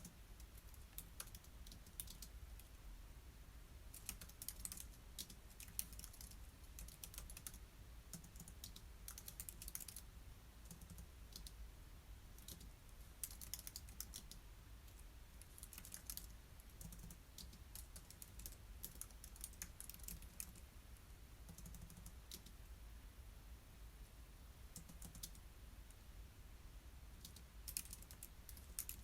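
Soft typing on a computer keyboard: quick runs of keystrokes with short pauses between them.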